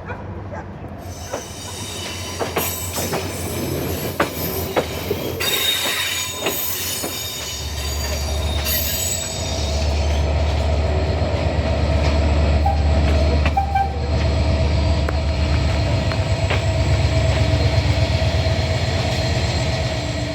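Passenger train on the move. Its wheels squeal and click over the rails for the first several seconds, then a deep, steady rumble builds from about eight seconds in and stays loud.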